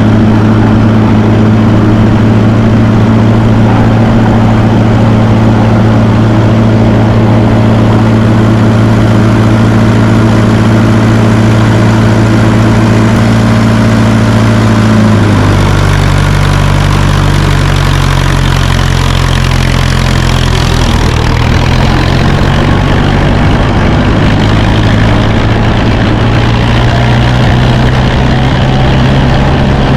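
1954 Fordson Major tractor's four-cylinder engine running steadily, then dropping to a lower speed about halfway through and settling there.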